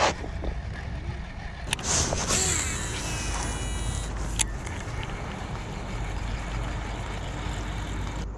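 A boat motor running steadily with a low hum, with three sharp clicks, about one at the start, one near 2 s and one near 4.5 s.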